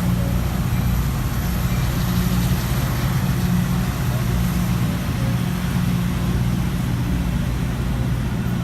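Diesel locomotive engine running steadily, a low even hum with no change in pitch.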